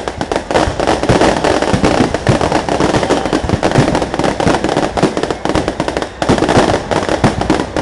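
A long string of firecrackers going off, a dense, rapid run of sharp cracks and pops with no break.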